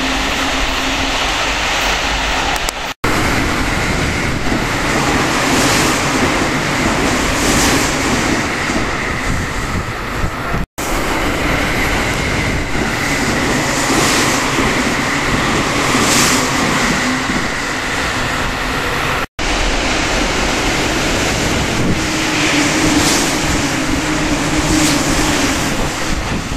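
Series E653 AC/DC limited express electric trains passing at high speed: a loud rush of wheel and air noise with steady humming tones under it and regular swells as the cars go by. The sound is cut off abruptly three times as one pass gives way to the next.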